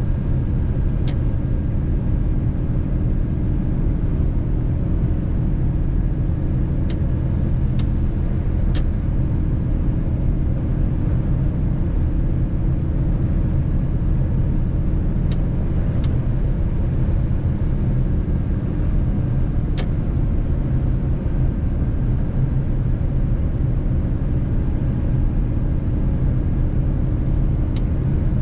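Mercedes-Benz truck running steadily on the road: an even drone of engine and road noise, with a few short, sharp ticks now and then.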